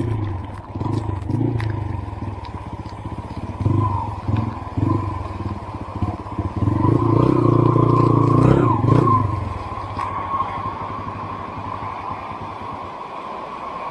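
Motorcycle engine revving up and down in short bursts, loudest a little past the middle, then falling back to a low steady hum for the last few seconds.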